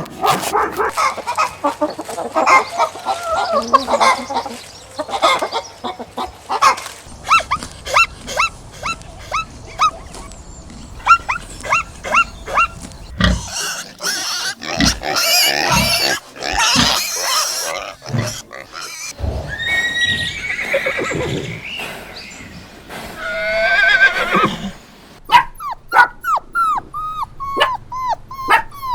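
A series of different farm animal calls, one short clip after another, changing abruptly every few seconds. Near the end comes a fast run of repeated, falling calls.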